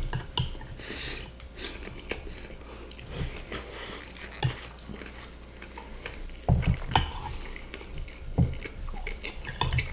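Close-miked eating: chewing mouthfuls of chicken stroganoff and rice with shoestring potato sticks, with scattered crackly clicks and utensils scraping on plates. A few low knocks come about two-thirds of the way through.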